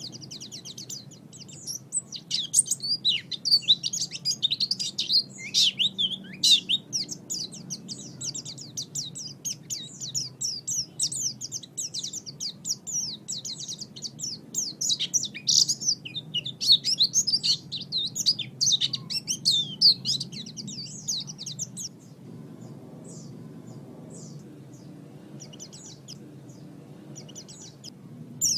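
White-eye (pleci) singing a fast, unbroken twittering song of high chirps, thinning to scattered single chirps for the last several seconds. A faint low hum runs underneath.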